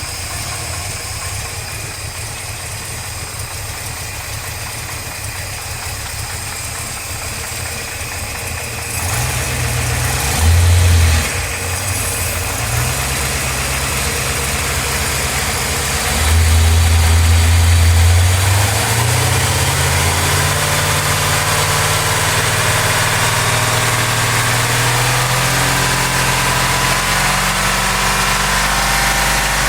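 An engine running, idling steadily at first, then speeding up in two short surges, about ten and sixteen seconds in, and holding a higher speed after that.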